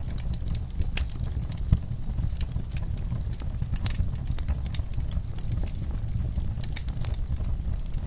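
Wood fire in a fireplace crackling, with irregular sharp pops over a steady low rumble of the flames; one louder pop a little under two seconds in.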